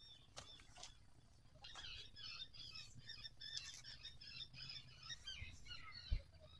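A songbird singing a fast, jumbled run of short chirps and warbles for about four seconds, with a few faint clicks before it starts and a short thump near the end.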